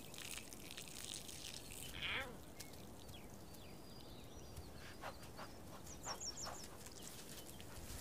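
Faint open-grassland ambience with an animal's short call falling in pitch about two seconds in, then a few faint high bird chirps and some soft clicks later on.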